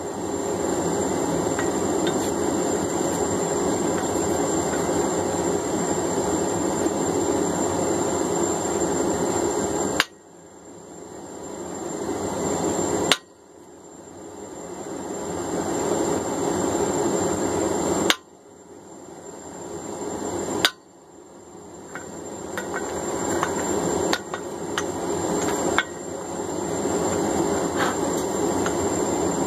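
A forge running with a steady noise, with about six single hammer blows on a center punch, spaced a few seconds apart, marking a 1045 steel hammer blank.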